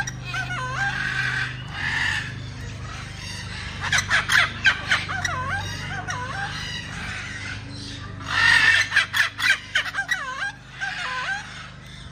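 Birds calling in three bouts, each opening with a quick run of sharp notes and going on into repeated swooping whistled calls. A steady low hum lies underneath.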